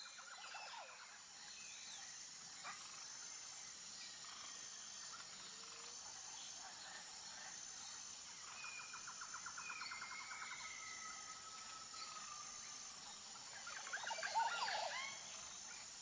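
Faint outdoor nature ambience: a steady high insect drone that pulses at an even pace, with assorted bird calls over it — a trill at the start and another around the middle, a couple of drawn-out whistled notes, and a flurry of chirps near the end.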